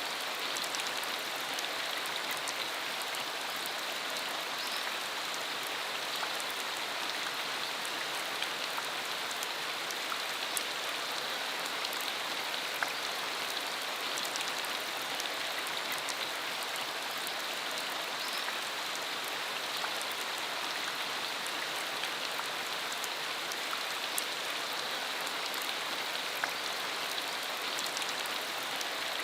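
Steady rain falling, a dense even hiss with scattered sharp drop ticks throughout.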